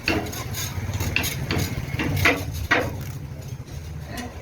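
Repeated sharp metallic clinks and knocks, several a second, over a steady low hum.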